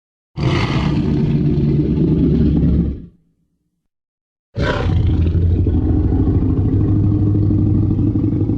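Tyrannosaurus rex roar sound effects: a deep roar of about three seconds, then, after about a second and a half of silence, a second, longer roar that is still going at the end.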